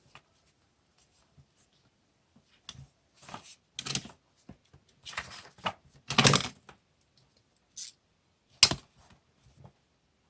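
Paper and stationery being handled for diary decorating: a run of short rustling and scraping sounds, the longest about six seconds in, then one sharp click near the end.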